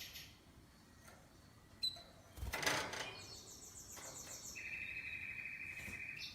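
Domestic canary singing in trills: a rapid high trill, then a lower trill of fast, evenly repeated notes lasting over a second. A brief noisy rustle just before the song is the loudest sound.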